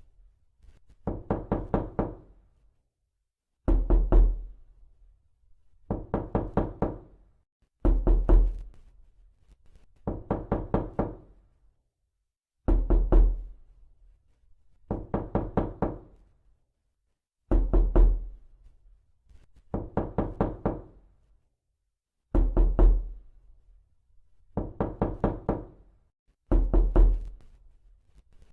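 Repeated knocking, a prank sound effect: quick sets of four or five knocks about every two seconds. A louder, deeper set alternates with a softer one.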